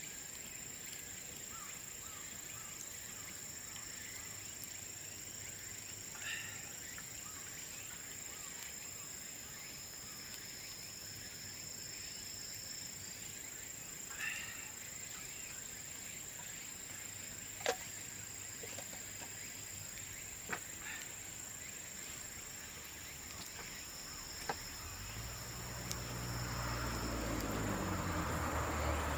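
Outdoor field ambience: a steady high insect trill, with short chirps twice and a few sharp pops from burning bamboo. A low engine drone builds over the last few seconds.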